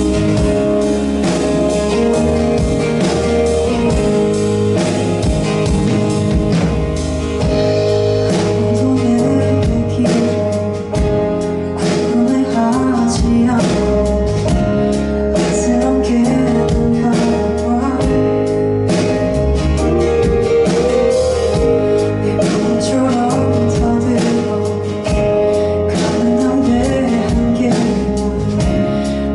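Live performance of a song: a singer's voice over guitar accompaniment with a steady beat.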